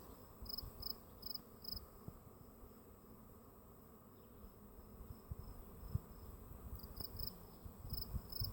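Faint insect chirping: short high chirps, a few each second, in an even rhythm. The chirps fade away for several seconds in the middle and come back near the end.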